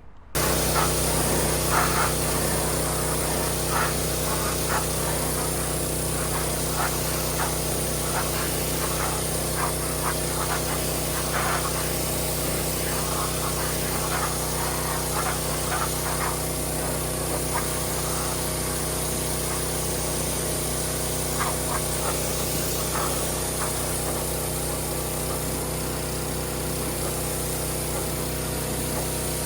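Pressure washer running with water spraying from the roller undercarriage cleaner's nozzles, a steady machine drone under a constant spray hiss with some spattering; it starts suddenly just after the beginning.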